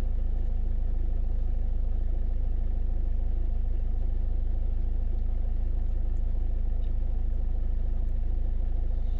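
Kia Carnival's 2.2-litre turbo diesel engine idling steadily.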